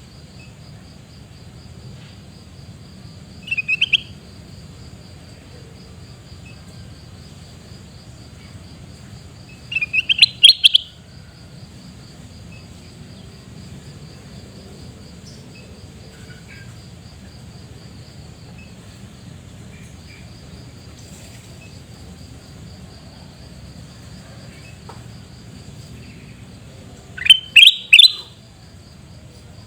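Kutilang emas (a bulbul) giving three short bursts of quick, loud, shrill calls: about four seconds in, about ten seconds in, and near the end. Between the bursts a steady, pulsing insect trill runs in the background.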